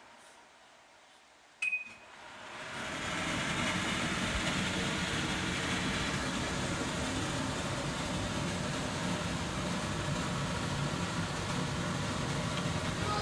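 A click with a brief beep, then a kitchen extractor hood's fan starting up, building over about a second, and running steadily. The hood is switched on through a wireless window contact switch.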